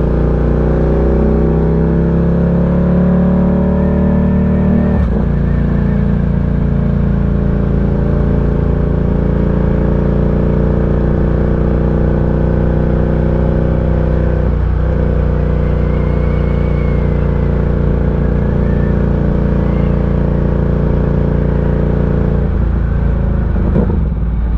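Ducati Diavel 1260's V-twin engine running under way on a mountain road. The note climbs a little, then breaks briefly as gears are changed about five seconds in, again around the middle and twice near the end, quick-shifter gear changes.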